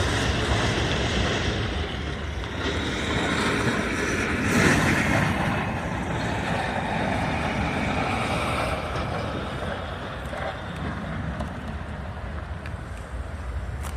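A train rolling past with a steady rumble, swelling about five seconds in and easing off toward the end, with wind buffeting the microphone.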